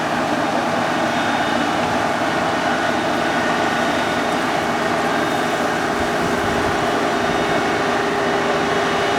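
Kubota combine harvester's engine running steadily as the machine travels, a constant mechanical drone with a steady hum.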